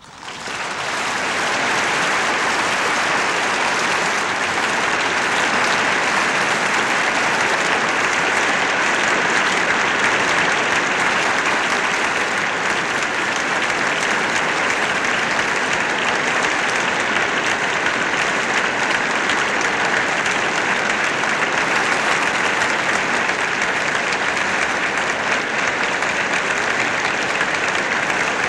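Audience applauding: dense, continuous clapping that swells up over the first second or two, then holds steady.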